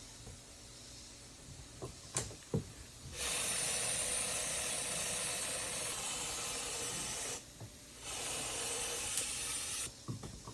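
Aerosol spray paint can spraying in two long hissing bursts of about four and two seconds, after a few short clicks.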